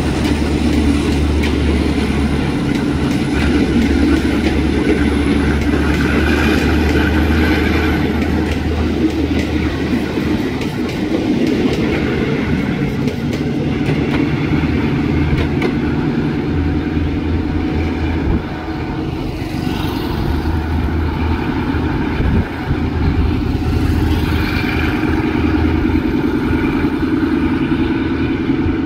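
Passenger train hauled by an Alsthom diesel-electric locomotive rolling past and away, a steady rumble of coach wheels on the rails with faint clicks over the rail joints.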